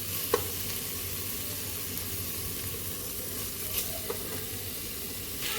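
Onion, tomato and spice masala sizzling in coconut oil in a pan as it is stirred, with a few light clicks from the stirring.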